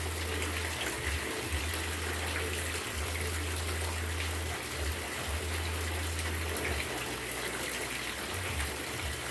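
Rain falling steadily, an even hiss, with a low hum underneath that drops out and returns several times.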